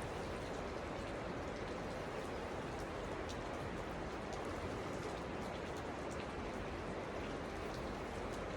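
Steady rush of fast-moving stream water, with faint scattered ticks of splashing droplets.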